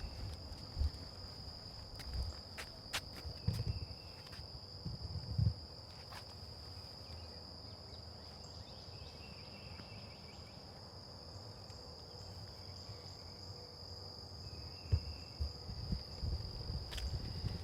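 A steady high insect trill, like crickets, with scattered short bird chirps and the low thumps of footsteps on a trail, heaviest near the start and again near the end.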